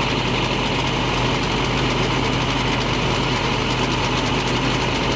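Diesel engine of a 2015 International 4300 truck, a MaxxForce DT inline-six, running steadily with an even, unchanging drone.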